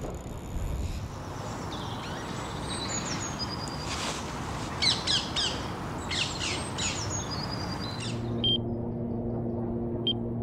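Small birds chirping and trilling in short high calls over a steady noisy background. About eight seconds in, the background gives way to a low steady hum.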